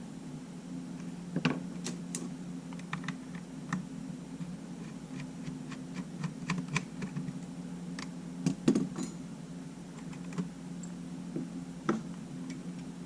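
Scattered light clicks and taps of small tools and parts being handled while a Sony A7 camera is worked on, with a few louder knocks about a second and a half in, near nine seconds and near twelve seconds, over a steady low hum.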